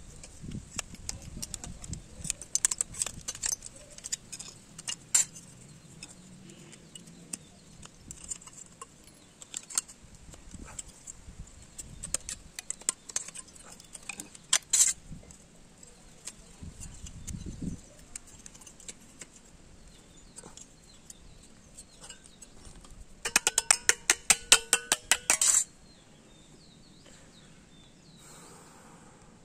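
Metal parts of a microwave oven magnetron clinking and tapping as it is handled and taken apart, with irregular sharp clicks. Near the end comes a rapid rattling run of clicks with a metallic ring, lasting about two seconds and louder than the rest.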